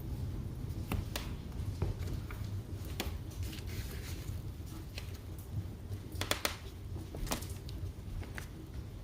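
Wood fire in a fireplace crackling, with irregular sharp pops, a quick cluster of them about six seconds in, over a low steady rumble.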